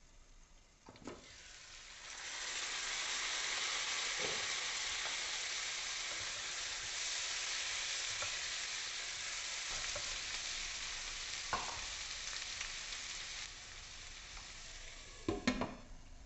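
Diced potatoes frying in oil in a kadai, sizzling loudly once the glass lid is lifted, with the odd tap of a silicone spatula stirring them. The sizzle dies down, and near the end the glass lid clinks back onto the pan.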